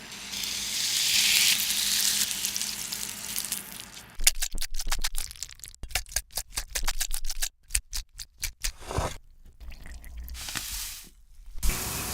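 Close-miked eating of Cheetos-coated mac and cheese: a few seconds of steady hiss, then a long run of quick, irregular crunching and wet chewing smacks.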